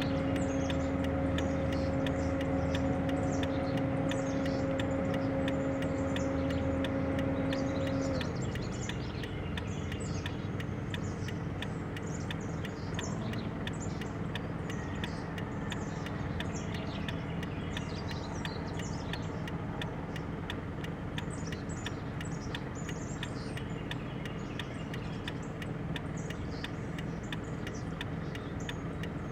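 Many short, high bird chirps throughout, over a steady mechanical hum. A strong steady tone in the hum, like an idling motor, cuts off about eight seconds in.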